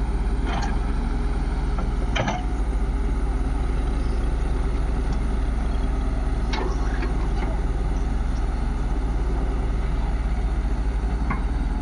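Heavy diesel engine running steadily at an even pulse, with a few short sharp knocks over it, about two seconds in and again near seven seconds.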